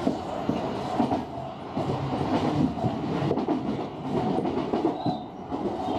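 Tobu 50000-series electric train running along the track, heard from inside the leading car, with the wheels clicking irregularly over rail joints.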